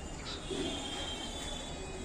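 Pet budgerigars chirping, with one high whistled note held for about a second, over a steady low background hum.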